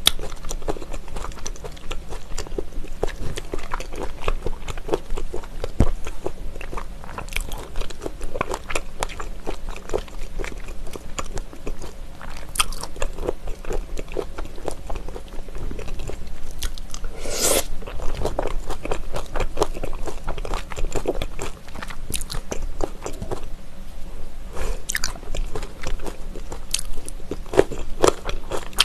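Close-miked chewing of raw trout sashimi mixed with sauce and vegetables: a steady run of wet, crunchy mouth sounds and bites, with chopsticks working in a glass bowl. One louder, longer noise comes a little past halfway.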